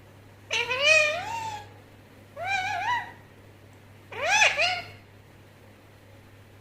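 Indian ringneck parrot giving three drawn-out, meow-like calls, each bending up and down in pitch, spaced under two seconds apart.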